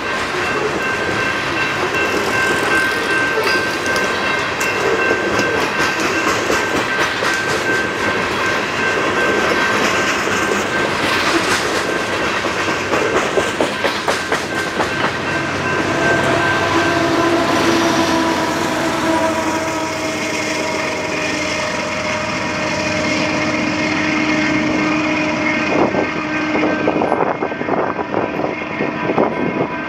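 A train passing close by: a continuous rumble and rattle of wheels over the rails, with steady ringing tones over it. A second set of lower tones joins about halfway through. The sound thins out toward the end.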